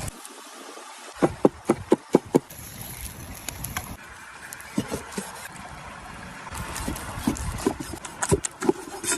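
A quick run of about six sharp knocks, then scattered single knocks over a low, even background noise.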